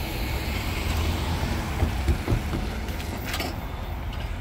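Freight train passing: a steady low rumble, with a few knocks about two seconds in.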